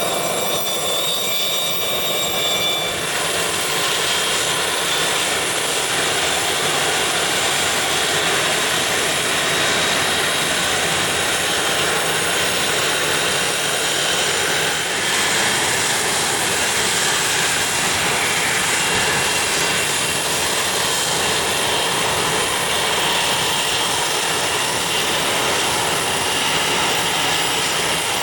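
Business jet engines running steadily at an airport, with a thin high whine over the first few seconds that gives way to a continuous, even engine noise.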